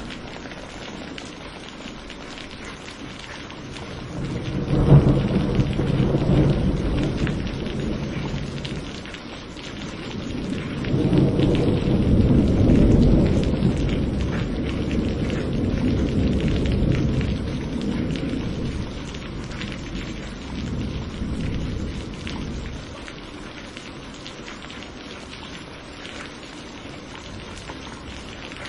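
Steady rain with rolling thunder: a sharp thunderclap about five seconds in, then a longer, louder rumble that builds, rolls on for about ten seconds and fades, leaving the rain alone near the end.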